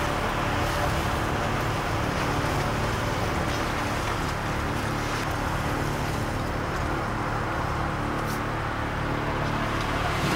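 Steady road and engine noise heard inside the cabin of a car being driven through city traffic.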